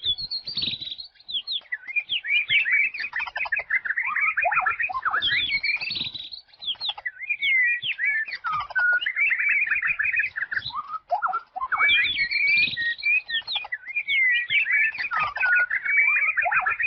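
Wild songbirds singing in a rapid, continuous stream of varied chirps and trills, with short pauses between phrases.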